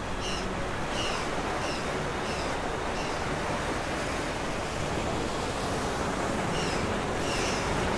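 Steady wash of sea surf. A run of short, high chirps repeats about twice a second near the start and again near the end.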